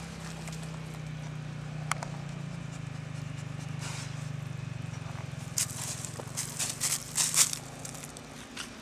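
Motorcycle engine running steadily, a low drone heard from a distance, which drops away near the end. In the second half come several short, loud bursts of crackling and rustling.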